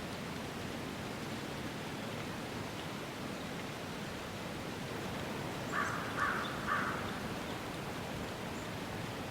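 Steady rushing outdoor background noise, with a crow cawing three times in quick succession a little past the middle.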